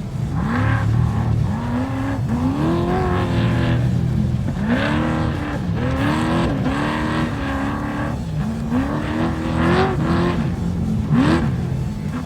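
Off-road race vehicle engine revving hard, its pitch climbing and breaking off about a dozen times in quick succession as the throttle is worked.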